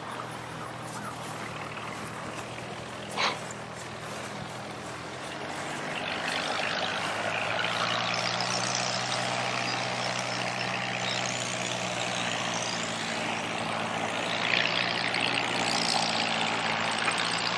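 An engine running steadily under a rising hiss of noise that grows louder from about six seconds in, with one short high squeak about three seconds in.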